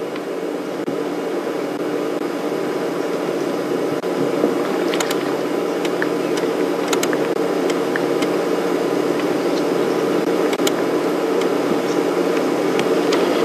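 A steady, fairly loud engine-like hum with several fixed tones, growing a little louder, with faint scattered clicks and short high chirps over it.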